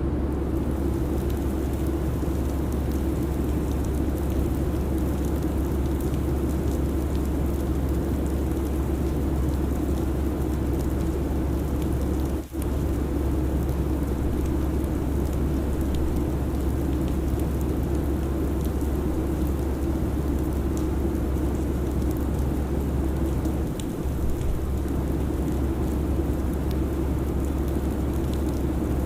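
Steady airliner cabin ambience: an even rushing noise over a constant low hum, with a brief dropout about twelve seconds in.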